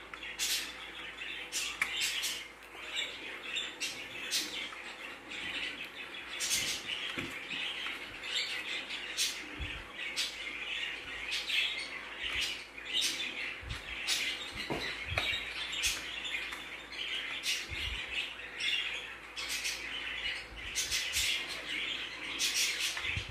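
Small birds chirping and twittering continuously, with scattered sharp clicks and knocks from handling a plastic ring light and its stand.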